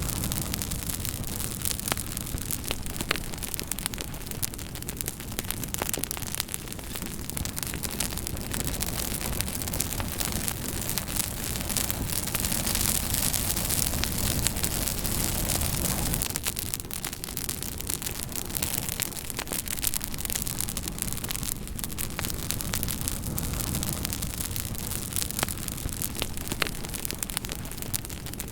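Campfire burning with dense crackling: many sharp pops and snaps of burning wood over a steady rushing hiss of flames.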